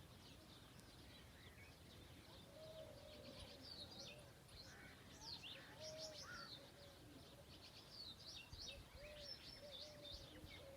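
Faint chorus of birds chirping outdoors: many quick, high chirps overlapping, with a lower, rounder call repeated every second or so, over a faint steady background.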